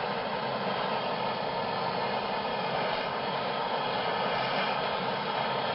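Soldering torch flame burning with a steady, even hiss while plumbing fittings are heated for lead-free solder.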